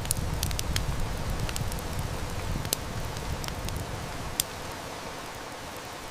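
Wood fire crackling and snapping, with irregular sharp pops, over a steady wash of heavy rain. A low rumble swells under it for the first few seconds and fades, and one louder snap comes about four and a half seconds in.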